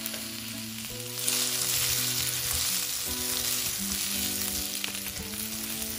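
Mixed vegetables and butter sizzling in a nonstick wok, the sizzle growing louder about a second in as they are stirred with a spatula. Soft background music plays underneath.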